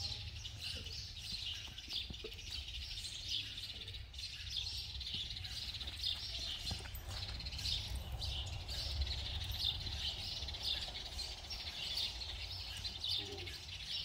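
Small birds chirping in a constant chatter of quick, high chirps over a low, steady rumble.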